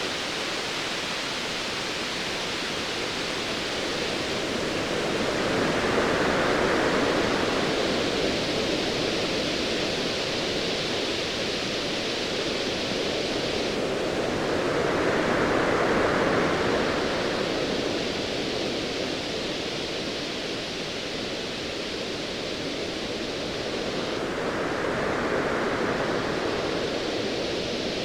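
Ocean waves: a steady rushing wash that swells three times, about every ten seconds, as waves surge in and fall back.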